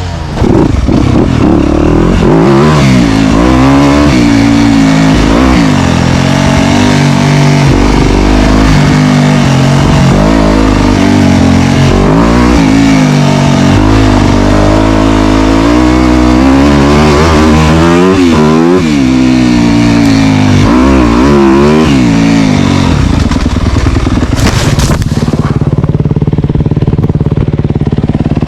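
Dirt bike engine revving up and down while riding a trail, its pitch climbing and falling again and again through the gears. About 23 seconds in it settles to a steadier, lower running sound.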